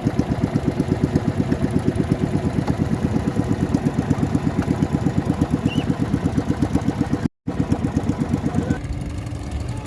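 Small boat engine running with a steady, even putter of about seven or eight beats a second. The sound cuts out for an instant about seven seconds in. Near the end the beat stops and a quieter, steadier hum remains.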